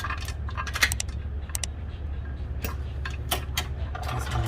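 Scattered metallic clinks and light scrapes of tools and loose parts while a cylinder head is being removed from an engine, over a steady low hum.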